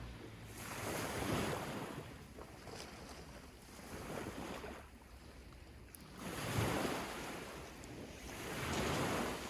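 Sea waves washing onto a sandy beach, the surf rising and falling in about four surges.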